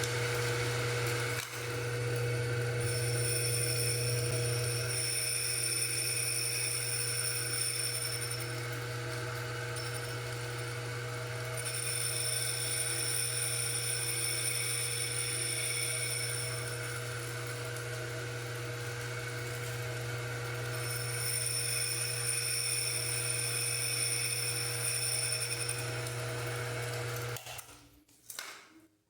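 Homemade lathe running steadily with a motor hum. A high-pitched whine comes and goes three times, and the machine winds down near the end.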